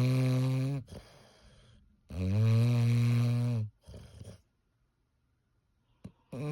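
English bulldog snoring loudly in its sleep: two long snores with a steady, buzzing pitch, each about a second and a half, each followed by a short, softer breath, and a third snore starting near the end.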